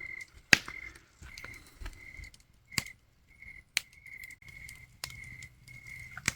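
Campfire crackling: sharp, irregular pops a second or so apart over a faint low hiss, with a high chirping sound that pulses on and off in the background.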